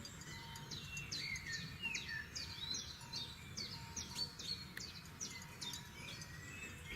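Forest songbirds singing: a busy chorus of quick chirps and short rising and falling whistles, one after another, over a steady low background rumble.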